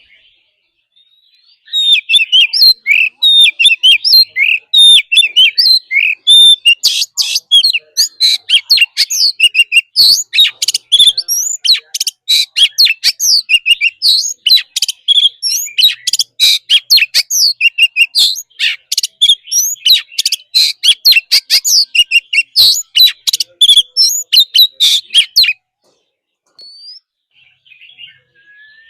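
Oriental magpie-robin singing a long, loud, fast song of varied whistles and sharp notes, growing denser and harsher after a few seconds, then stopping suddenly a few seconds before the end.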